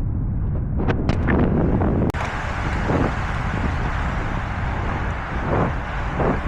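Wind rushing over the microphone of a camera on a moving bicycle, with a steady low rumble of road noise. The sound drops out for an instant about two seconds in.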